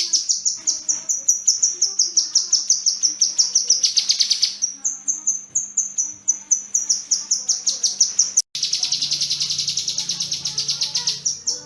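Kinoi bird singing a long, rapid train of high, sharp repeated notes, several a second. There is an abrupt break about two-thirds of the way through, after which the rapid notes resume.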